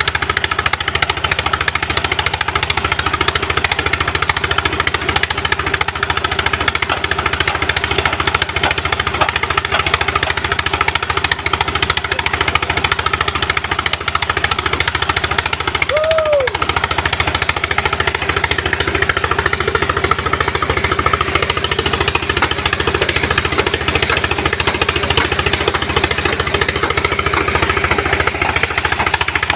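Engine of a sand-suction pump machine running steadily under load with a fast, even knocking beat. About halfway through there is a brief rising-and-falling whistle-like tone.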